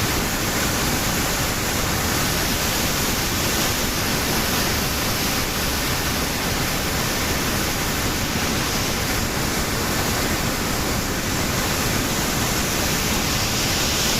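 Langfoss waterfall's water falling, a steady, even rush of noise that does not change.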